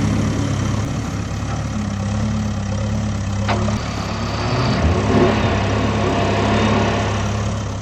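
An engine idling with a steady low drone, and a brief sharp click about three and a half seconds in.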